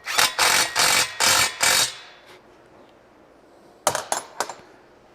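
Power impact wrench run in four short bursts, driving home the frame bolts of an engine stand, followed a couple of seconds later by a few sharp metallic clicks.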